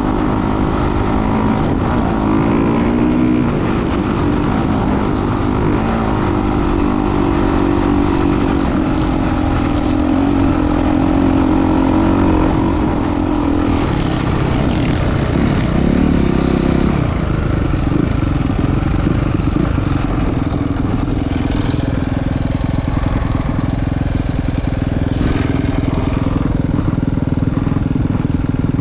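Motocross motorcycle engine running with steady throttle, its pitch shifting up and down, with one marked rev rise and fall about halfway through.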